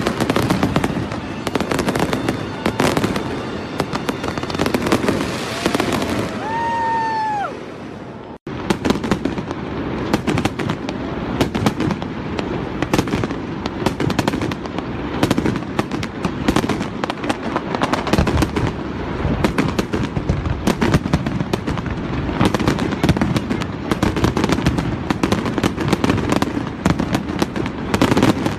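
Fireworks going off in rapid, irregular succession: a dense run of bangs and crackling from aerial shells and ground-level crackle effects. It breaks off suddenly about eight seconds in, just after a brief whistling tone, then the bangs and crackle pick up again and carry on.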